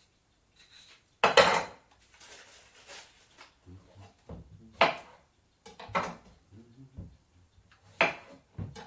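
Dishes and cutlery clattering: about five separate knocks and clinks, the loudest about a second in.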